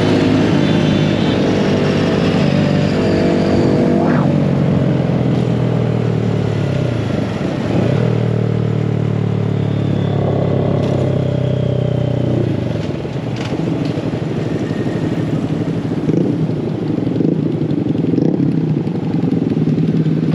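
Small mini bike engine running under throttle while riding, its note holding steady, dropping off about four seconds in, climbing again and holding, then falling off again about thirteen seconds in.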